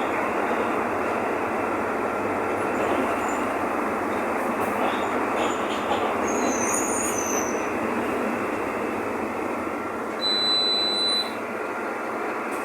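Mercedes-Benz OF-1519 BlueTEC 5 bus running, a steady dense engine and road noise of a vehicle on the move. A high, steady beep lasts about a second near the end.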